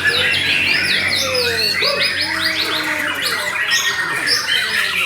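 White-rumped shama (murai batu) singing a dense, rapid stream of chattering notes and quick whistled glides, the notes overlapping with no pause.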